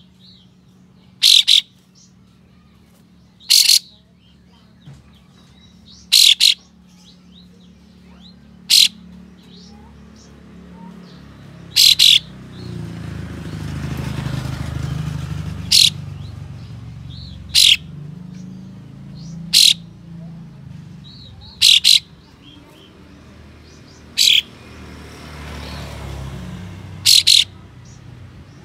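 Kapas tembak bulbul giving short, sharp, loud 'shot' calls, one or two at a time about every two seconds. A low rumble swells in the background twice, in the middle and near the end.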